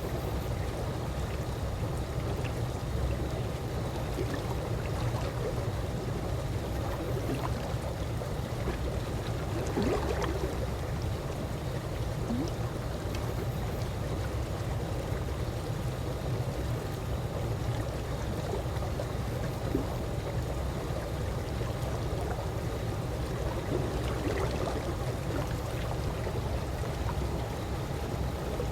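Calm swimming-pool water lapping steadily, with small gurgles and splashes about ten seconds in and again near the end, over a steady low rumble.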